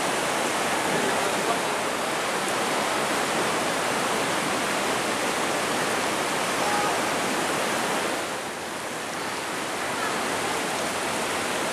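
Steady rush of flowing, falling water, briefly dipping in level and losing some of its hiss about eight seconds in.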